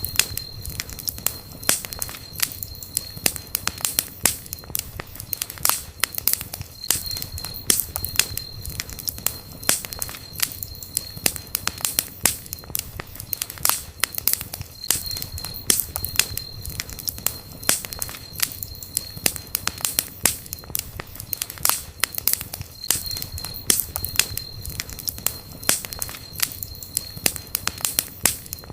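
Wood campfire crackling, with sharp irregular pops and snaps over a low, steady rumble of the burning fire.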